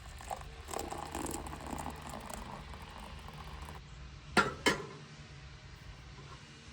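Hand-cranked coffee grinder being turned: a faint, rough grinding rattle for about four seconds, followed by two sharp clicks.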